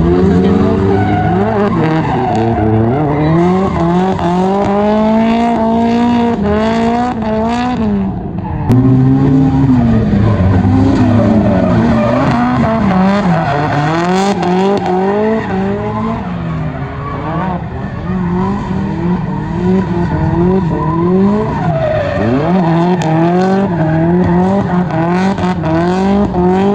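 Drift car engines revving hard, their pitch climbing and dropping again and again as the throttle is worked, with tyres squealing and skidding. The sound changes abruptly about eight and a half seconds in.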